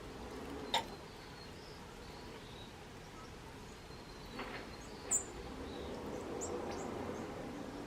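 White-crowned sparrows at a birdbath: faint high chirps over a steady outdoor hiss, with two brief sharp sounds, one just under a second in and a higher one about five seconds in.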